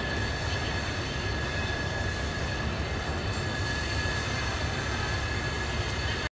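Passenger train running away down the line, a steady low rumble of coach wheels on the rails with a thin steady whine above it. The sound cuts off abruptly near the end.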